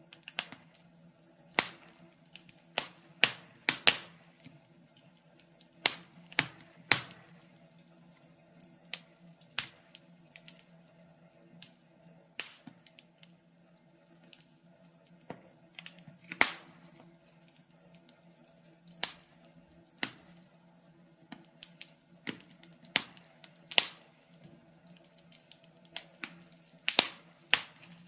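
Wood fire in a fireplace crackling, with irregular sharp pops and snaps, a few of them loud.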